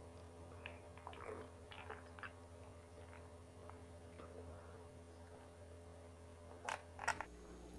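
Faint mouth sounds of a person drinking from a glass: small wet clicks of sipping and swallowing, then two sharper clicks near the end.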